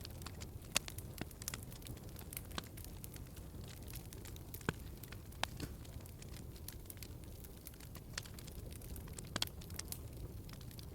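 Log fire crackling in a fireplace: a steady low rumble of burning with frequent irregular pops and snaps, a handful of them sharper and louder than the rest.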